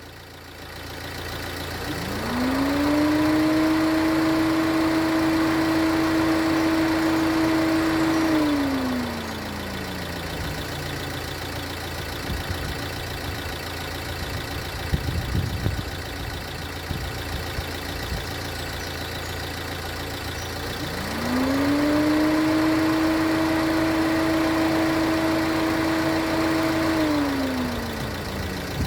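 A fan in a Bürstner Ixeo motorhome cycling on and off over a steady low hum. It spins up into a whine about two seconds in, runs steadily for about six seconds, then winds down; the same cycle repeats about two-thirds of the way through.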